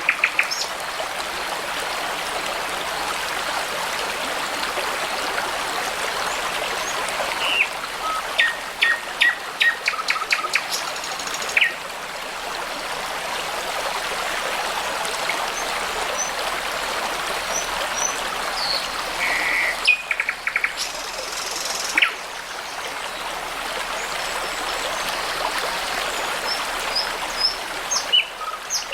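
A brook babbling steadily, with songbirds singing over it: runs of quick repeated notes between about eight and eleven seconds in, a short trill near the twenty-second mark, and scattered short high whistles.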